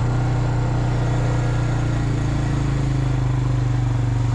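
Engine of a small farm vehicle running steadily at low speed, a constant low hum.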